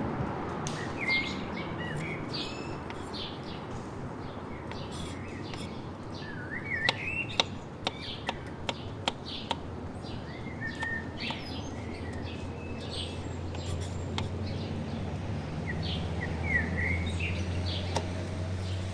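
Birds chirping on and off over a steady background hush. A quick run of sharp clicks or taps comes in the middle.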